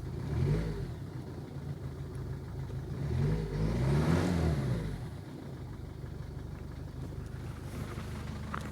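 Mercedes Vito 2.2 CDI four-cylinder diesel idling cold. It is blipped briefly about half a second in, then revved up and back down between about three and five seconds. The engine shakes heavily at idle, which the mechanic suspects comes from a failing dual-mass flywheel damper.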